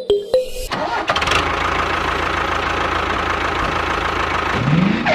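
A short musical sting, then an engine starts about a second in and runs steadily, with a brief rising whine near the end.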